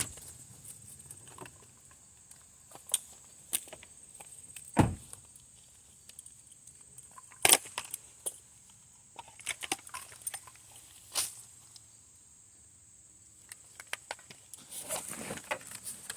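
Scattered sharp clicks and jingles of dog collar tags and footsteps, loudest about five, seven and a half and eleven seconds in, and busier near the end. Under them runs a steady high insect trill.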